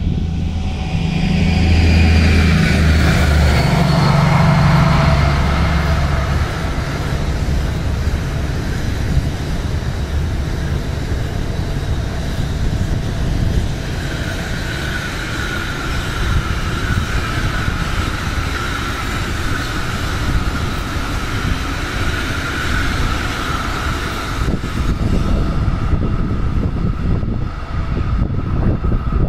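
Diesel-hauled Sylt Shuttle car-carrier train passing close by. The locomotive's engine is loud in the first few seconds and drops in pitch as it goes past, then the long string of double-deck car-carrier wagons rumbles and clatters over the rails, with a steady high whine through the middle.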